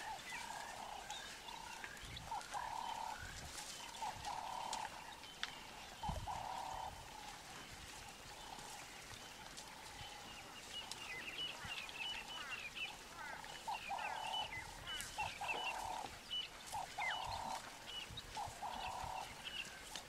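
Faint outdoor birdsong: a bird repeats a short call at irregular intervals, and from about halfway through small birds chirp in higher notes.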